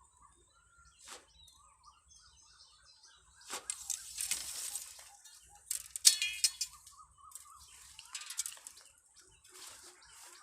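Several bursts of rustling and crinkling, the loudest about six seconds in, over a faint warbling bird call and a steady high-pitched whine.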